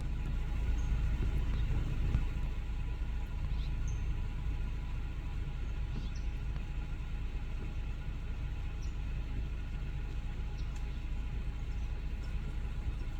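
Steady low rumble of a vehicle engine idling, with a few faint high chirps over it.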